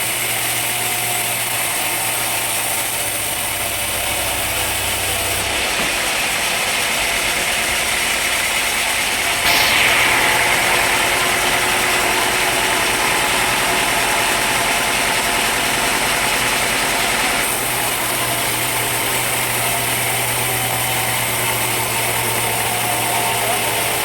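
Sawmill machinery running steadily. About ten seconds in there is a sudden louder, higher-pitched surge that slowly eases off.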